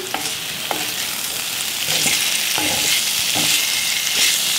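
Baby corn and mushrooms sizzling in a stainless steel pan, stirred with a wooden spatula, which makes short scrapes against the pan about once a second over a steady frying hiss.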